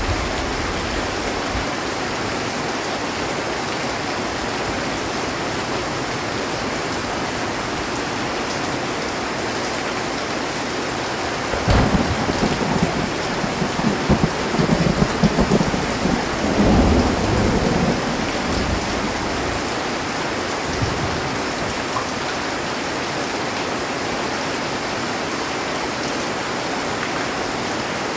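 Heavy rain falling steadily on a metal roof. About twelve seconds in, a sharp thunderclap breaks out and rumbles on for about six seconds before the rain alone is left.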